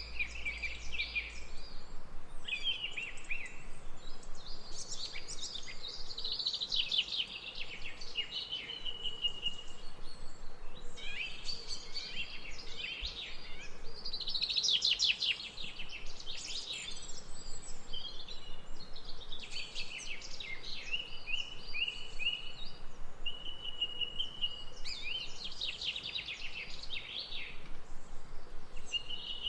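Birdsong: phrases of rapid chirps and trills with short held whistled notes, repeating every few seconds, over a faint steady background hiss.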